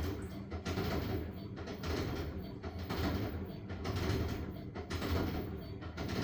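LG washing machine working a load of wet blankets: water sloshing and swishing in repeated waves over a steady motor hum.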